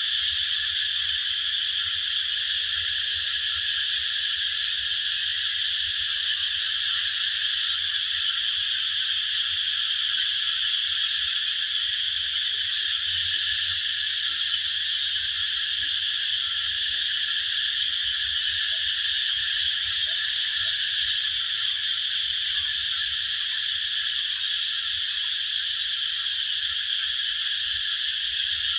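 A steady, unbroken high-pitched chorus of many calling animals, with no single call or song standing out.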